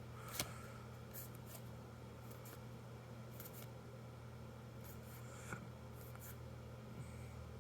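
Faint slides and flicks of trading cards being handled and turned over, with a few soft scattered clicks, over a steady low hum.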